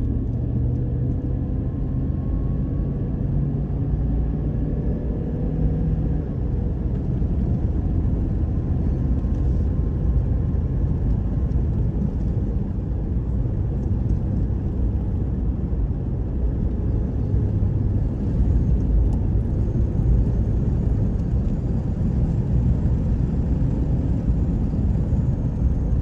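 Steady road noise of a car being driven: a low engine and tyre rumble heard from inside the cabin. A faint engine tone climbs a little in the first few seconds.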